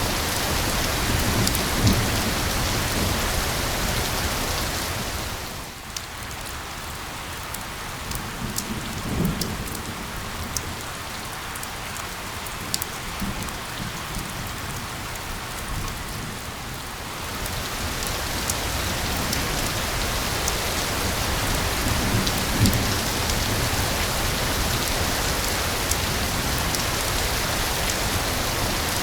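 Rain falling steadily, with a few low rumbles now and then. From about six seconds in until about seventeen, it thins and quietens, and single drops stand out as sharp ticks.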